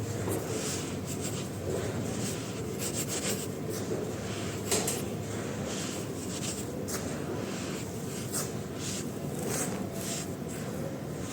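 Soft, crispy dry blocks being crushed and crumbled by hand, giving irregular crackles and crunches, the sharpest about five seconds in, over a steady low background noise.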